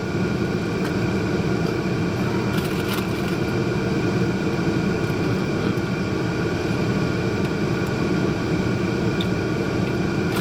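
Steady low drone of running machinery, with a few faint brief clicks.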